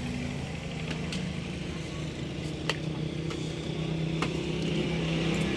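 Old 22/24 HP, 300 rpm stationary diesel oil engine running with a low steady throb, growing louder toward the end. A few sharp clicks are heard over it.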